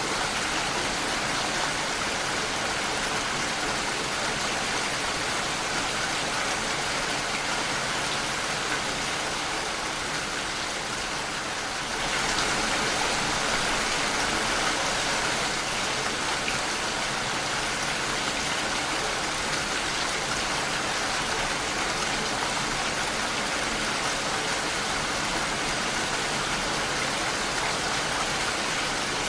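Steady rain pattering against a window pane, a dense even hiss of drops, growing slightly louder about twelve seconds in.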